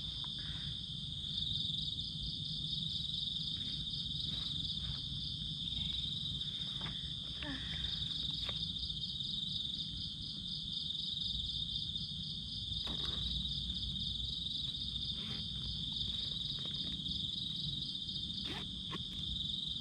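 Chorus of forest insects: a continuous high, steady buzz with a fast pulsing trill just above it, over a low steady rumble, with a few faint clicks and rustles of handling.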